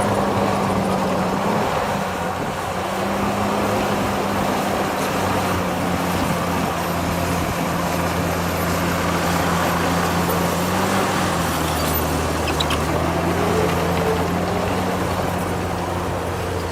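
Heavy diesel engine of earthmoving machinery running steadily, its pitch shifting a little a few times as it works.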